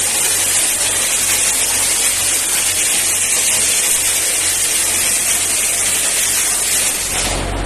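Dry ice blasting nozzle spraying, a loud steady high hiss of compressed air and ice pellets. It cuts off about seven seconds in, leaving a low steady engine-like hum.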